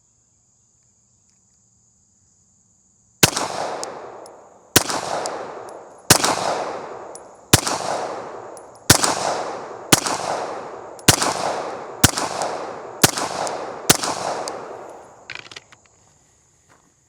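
Pistol fired ten times at an unhurried pace, about one shot every second to second and a half, each shot trailing off in an echo. A faint steady high insect drone runs underneath.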